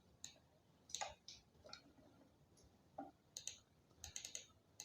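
Faint, irregular keystrokes on a computer keyboard: single clicks and short runs of a few keys with pauses between.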